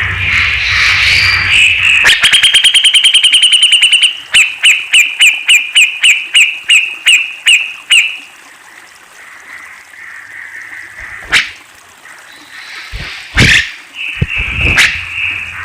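Cucak jenggot (grey-cheeked bulbul) calling: a fast rattling run of repeated notes that slows into separate sharp notes, about three a second, then stops. A few loud sharp clicks follow near the end.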